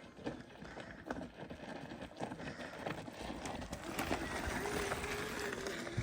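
Mountain bike on a dirt trail: a steady rush of tyre and ride noise with scattered clicks and crunches from loose stones. A steady mid-pitched whine comes in about halfway and holds.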